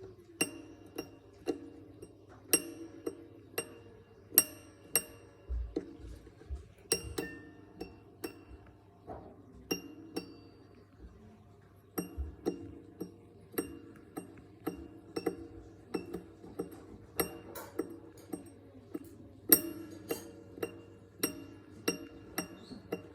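A piece of metal struck again and again, one to two sharp clinks a second at an uneven pace, each ringing briefly in high chiming tones, in imitation of the bell-like 'tink' call of bell miners.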